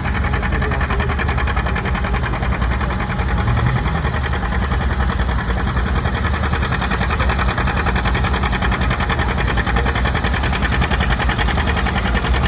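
John Deere 70 two-cylinder diesel tractor engine running steadily, with a rapid, even beat.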